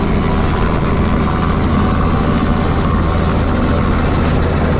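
Robinson R66 helicopter's Rolls-Royce RR300 turboshaft engine and rotor running steadily, heard from inside the cabin: a thin high turbine whine over a low drone.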